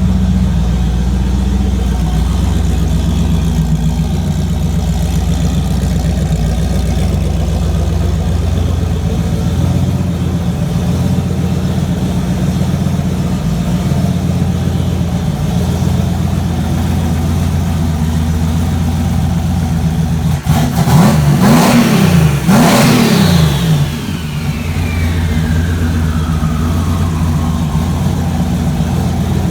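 Big-turbo Fox-body Mustang engine idling steadily, then revved twice in quick succession about two-thirds of the way in. After the second rev, a turbo whine falls away over several seconds as the idle settles back.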